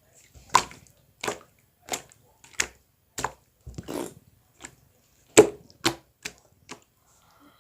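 A series of about a dozen sharp taps or slaps at an uneven, fairly quick pace, roughly one every two-thirds of a second, with two close together about five and a half seconds in.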